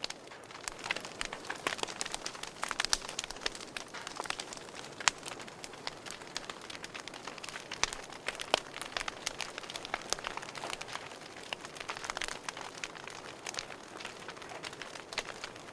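Wood fire burning in a fireplace, with frequent irregular sharp crackles and pops over a steady hiss.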